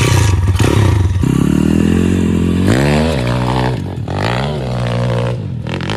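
Pit bike engine revving hard as the bike is ridden up a flight of stairs, starting loud all at once and rising and falling in pitch with the throttle.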